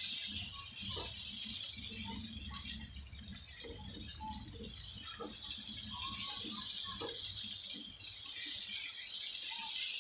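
Mutton koftas sizzling as they fry in masala in a non-stick kadai, with a wooden spatula scraping and knocking against the pan as they are stirred. The sizzle eases for a few seconds early on, then comes back up.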